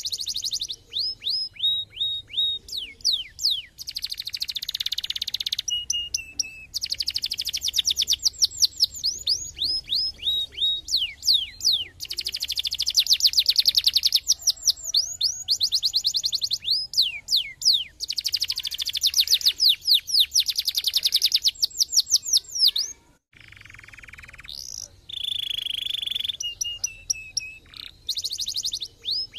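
Domestic canary singing a long, continuous song: rapid runs of repeated downward-sweeping whistled notes alternating with trills and short held tones, broken by a brief pause about 23 seconds in.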